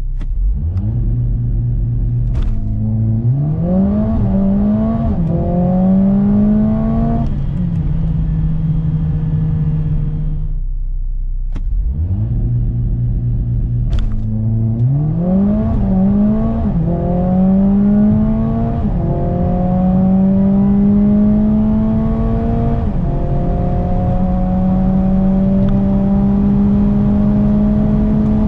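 The 2.0-litre turbo four-cylinder of a 2020 Mercedes-AMG A45 S accelerating hard twice, its revs climbing and dropping back at each quick upshift of the eight-speed dual-clutch gearbox. Between the two runs it settles briefly to a steady low note. There is a sharp crack early in each run.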